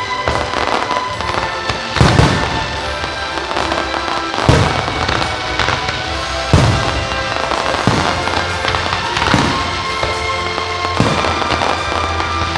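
Aerial fireworks shells bursting with a loud bang every one to two seconds, with crackling between them, over music played for the show.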